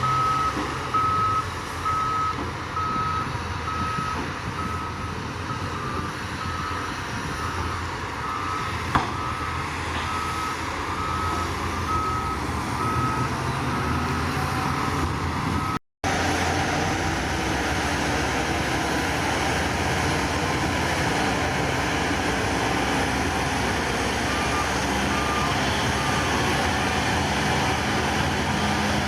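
A heavy machine's reversing alarm beeps steadily over a running diesel engine. The sound cuts out for a moment about halfway through. Near the end the beeping comes back at a slightly lower pitch.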